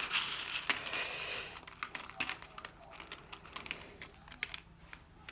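Loose seed mix of sunflower seeds and nuts rustling and clicking as it is pressed and rolled onto a peanut-butter-coated cardboard tube by hand: a dense rustle at first, then a patter of small sharp clicks that thins out near the end.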